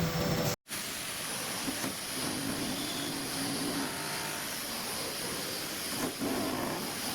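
CNC router machining center running: a steady rushing machine noise with a faint high whine, cut off abruptly for an instant about half a second in by an edit and then resuming.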